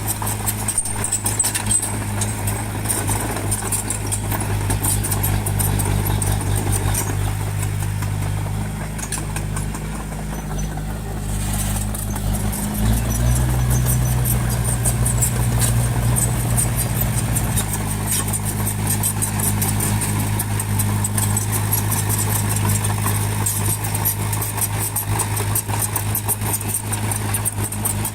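Bulldozer's diesel engine running steadily; a little after halfway the revs rise for about five seconds, then settle back. A fine metallic rattle runs over the engine.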